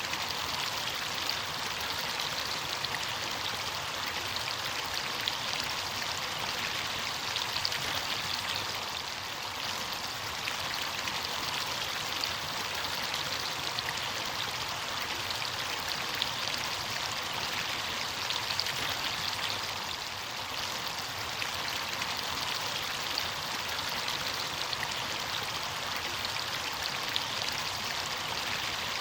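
Running water of a stream or small waterfall: a steady splashing rush with fine droplet patter, unchanging throughout.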